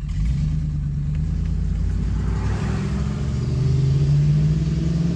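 Car engine running with a low, steady drone that grows louder about three to four seconds in.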